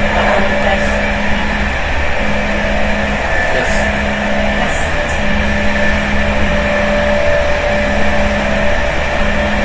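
Inside a passenger carriage of an intercity train while it runs: a steady low rumble and rolling noise with a constant electric whine. A low hum cuts in and out every second or so, and there are a couple of brief high hisses a few seconds in.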